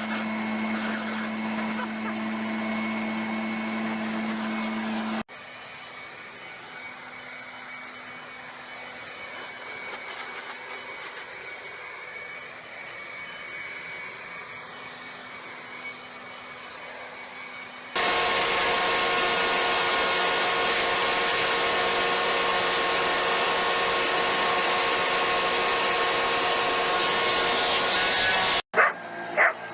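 Leaf blowers running steadily, heard in three separate stretches that cut abruptly from one to the next, about 5 seconds in and about 18 seconds in. The last stretch is by far the loudest, a steady rush of air with a motor whine.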